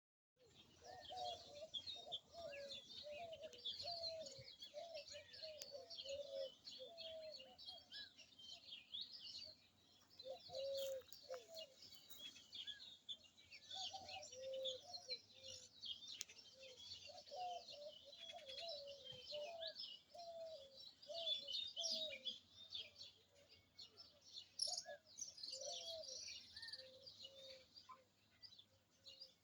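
Many birds chirping together in a dense chorus of high, quick twitters, with a lower call repeated in short notes underneath.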